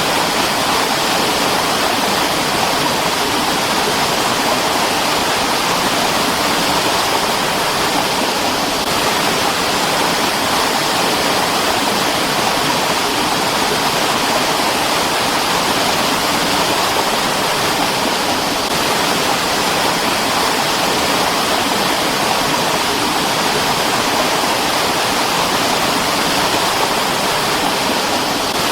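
Mountain stream rushing over rocks, a steady, unbroken splashing of running water.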